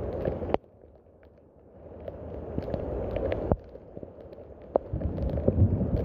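Rain falling, with scattered close drop clicks. The sound cuts off abruptly about half a second in and then swells back. It cuts again at about three and a half seconds, then grows heavier and deeper near the end.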